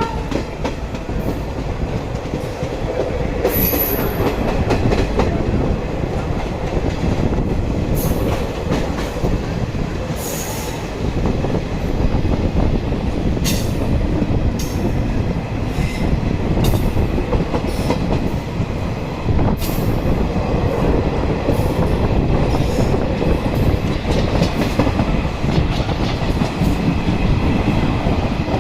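Passenger express train running along the track: a steady rumble of wheels on rails, broken by sharp clacks every few seconds.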